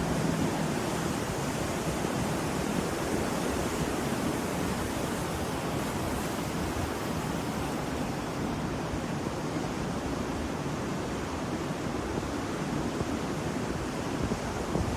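Ocean surf: a steady wash of breaking waves, with wind on the microphone.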